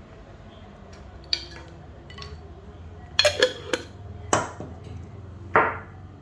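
Kitchen utensils clinking and knocking: a spoon rapping against containers while spices are measured out, a handful of separate sharp clinks and knocks with a cluster in the middle, over a low steady hum.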